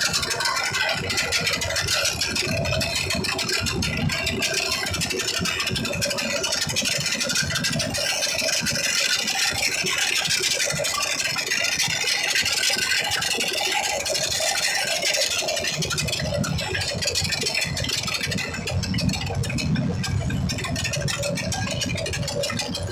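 Several motorcycle engines running at once, a loud continuous din of exhausts with a fluctuating low rumble.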